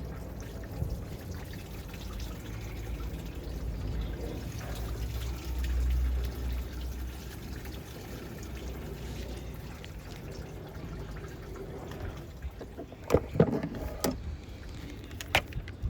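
Engine coolant trickling and pouring out of a removed hose into a drain container. Three sharp knocks near the end.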